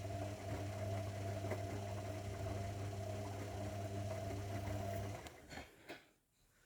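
Zanussi washing machine running with a steady, even hum that cuts off about five seconds in, followed by a few short knocks as it stops.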